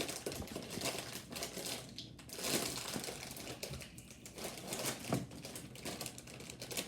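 Crinkling and rustling of a plastic Turtle Chips snack bag as it is handled and opened.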